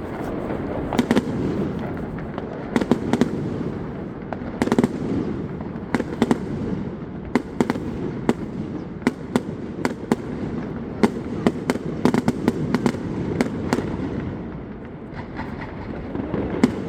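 Aerial fireworks display going off: dozens of sharp bangs and crackles in quick, irregular succession over a continuous low rumble of bursting shells.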